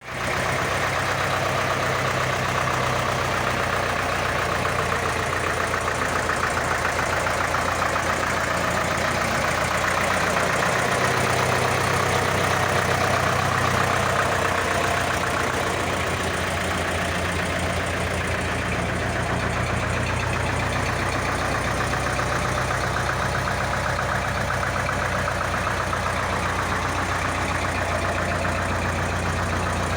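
Porsche-Diesel Master tractor's air-cooled four-cylinder diesel engine running steadily at idle, its low note shifting slightly a couple of times.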